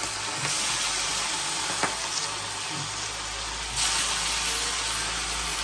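Food frying in hot oil in a pan, a steady sizzle. A short click comes a little before 2 s, and the sizzle swells slightly near 4 s.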